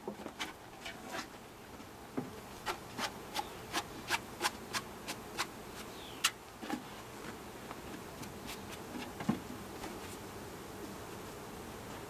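Honeybees buzzing around an opened hive, with a run of sharp wooden clicks and taps from the hive boxes and frames being worked, about three a second for a few seconds, then only now and then.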